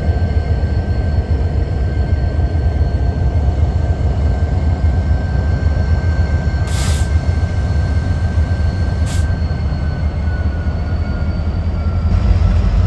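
A train rolling along the rails: a steady low rumble with a thin, high wheel-squeal tone that slides slightly lower near the end. Two short hisses cut through about 7 and 9 seconds in.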